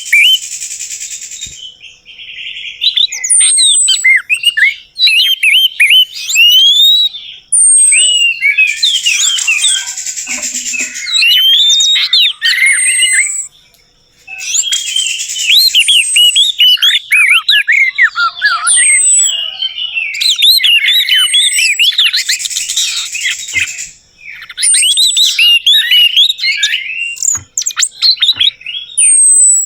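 Orange-headed thrush singing a long, varied song of rapid, sweeping high whistled notes and chatter, in long phrases broken by a few brief pauses.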